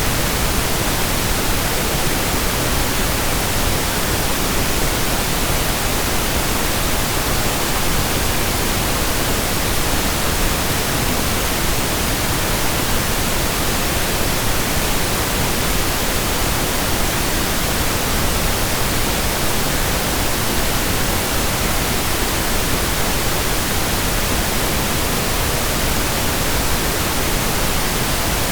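Steady, unchanging pink noise: an even hiss spread across the whole range, with no tones or events.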